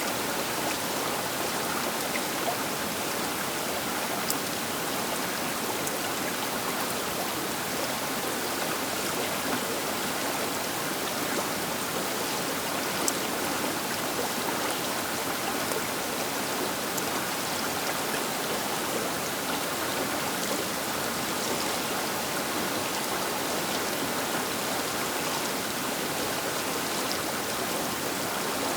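The Baker River flowing past its bank: a steady rush of water, with a few faint splashes and ticks.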